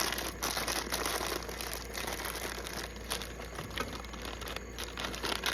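Plastic chip bag crinkling and rustling in quick, irregular bursts as corn chips are taken out of it.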